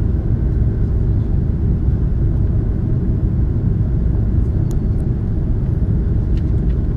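Steady low rumble inside an Airbus A330's cabin while taxiing: the engines at taxi power and the wheels rolling on the taxiway. A few faint clicks come through in the second half.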